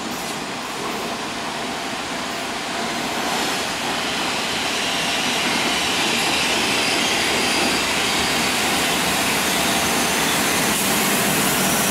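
E656 electric locomotive hauling a passenger train slowly into the platform: a steady rail rumble and hiss that grows louder over the first half as the locomotive comes close, then holds.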